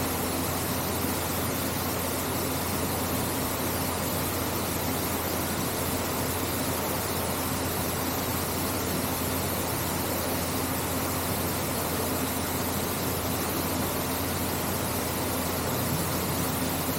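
Artificial-rock waterfall splashing steadily into a pool, an even rush of falling water with a faint low hum underneath.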